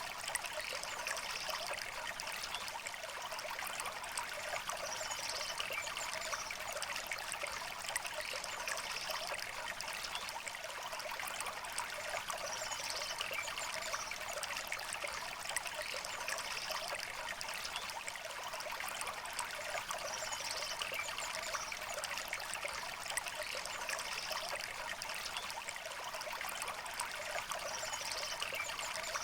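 River water flowing steadily: a bright, even trickling and babbling with little low rumble. Faint bird chirps come every few seconds.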